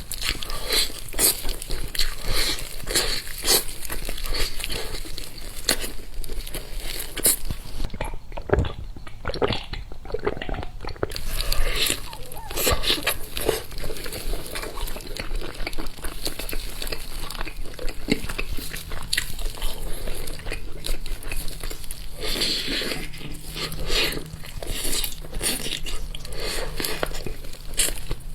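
Close-miked eating sounds: a person biting and chewing food with many wet, irregular clicks and crunches.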